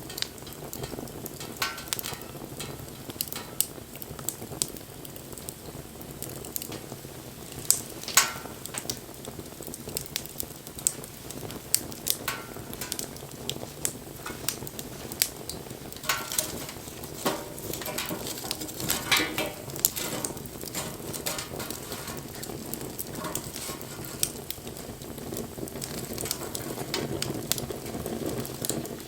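Wood fire crackling: a steady hiss with irregular sharp pops and snaps, the loudest pair about eight seconds in.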